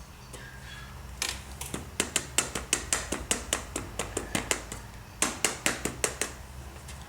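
Static grass applicator being shaken over the glued scenery, giving a rapid run of sharp clicks, about four or five a second, with a short pause partway through. A steady low hum runs underneath.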